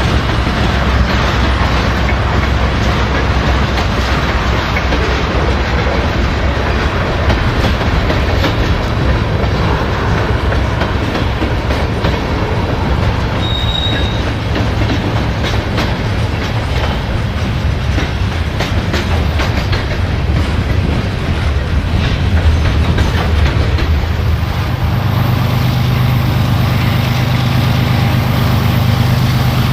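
A train rolling past with its wheels clicking over the rail joints, over a loud steady rumble. About 25 s in, a steady low engine hum comes up.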